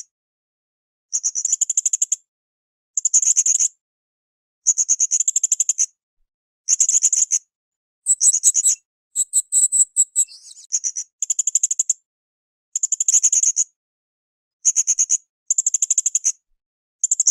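Blue-crowned hanging parrot (srindit) singing: a string of short, high, rapid trills, each under about a second, with brief silent gaps between them. Around the middle comes a run of slightly different notes with a few faint low knocks.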